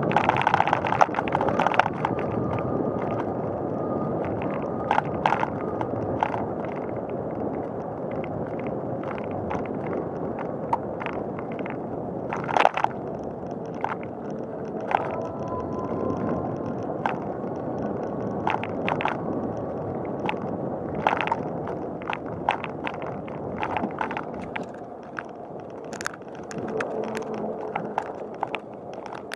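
Bicycle rolling along a paved path: steady tyre and riding noise with many small rattling clicks from the bike.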